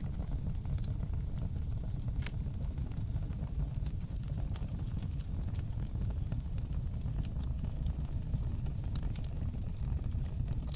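Fireplace fire burning: a steady low rumble with scattered sharp crackles and pops, one louder pop about two seconds in.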